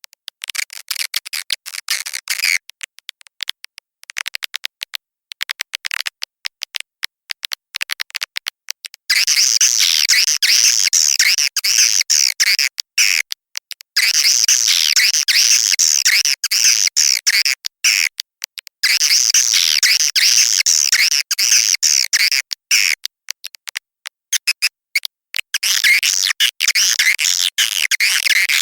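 Edible-nest swiftlet calling sound played as a lure for a nest house: rapid, high twittering chirps from many birds. Sparse and choppy for the first third, then dense in stretches of about four seconds with short breaks between them.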